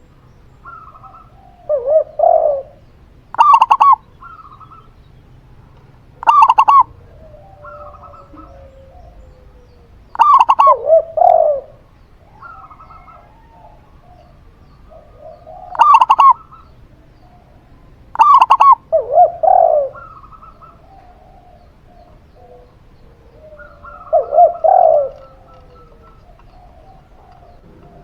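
A zebra dove (perkutut) and a spotted dove (tekukur) cooing in turns. Short, higher, ringing calls alternate with lower coos, one call every few seconds, with faint softer notes in between.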